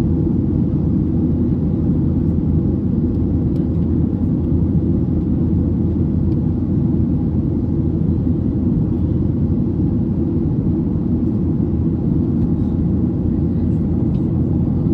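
Steady low drone inside the cabin of a Ryanair Boeing 737 in flight: engine and airflow noise holding an even level throughout.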